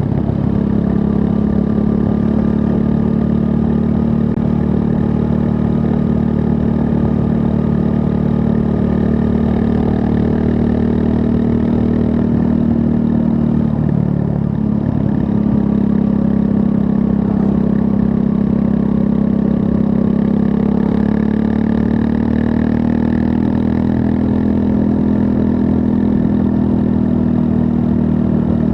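Triumph Scrambler 400 X's 398 cc liquid-cooled single-cylinder engine running under way at a fairly steady speed. Its pitch dips about halfway through, climbs again, and rises a little more a few seconds later.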